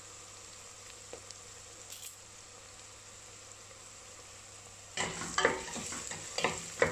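Onions frying in oil in a stainless steel pot, a soft steady sizzle with a couple of faint ticks. About five seconds in, a wooden spatula starts stirring, scraping and knocking irregularly against the pot over the sizzle.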